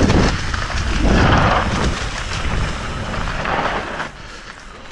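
Wind buffeting the camera microphone with rumble and rattle from a mountain bike descending a dirt trail, easing off about four seconds in.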